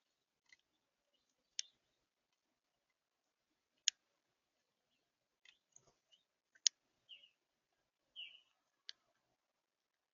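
Birds at a snowy winter feeder: a handful of sharp, faint ticks a few seconds apart, with a couple of short, soft chirps near the end.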